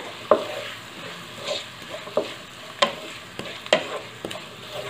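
Chopped green onion, green garlic and peas sizzling in hot oil in a kadai while a wooden spatula stirs them, with a few irregular sharp scrapes and taps of the spatula against the pan.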